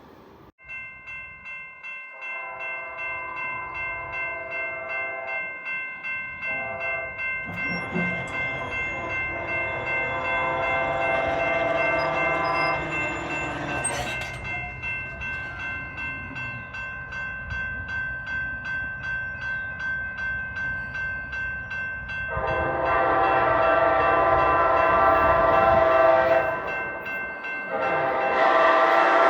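Train horn sounding in several blasts, the loudest two near the end, over a steady ringing that pulses about one and a half times a second.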